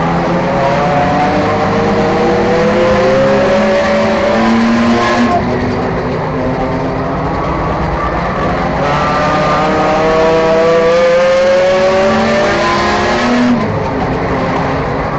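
Enduro race car's four- or six-cylinder engine under full throttle, its pitch climbing twice as it accelerates, each time cutting off sharply as the driver lifts: about five seconds in, and again near the end.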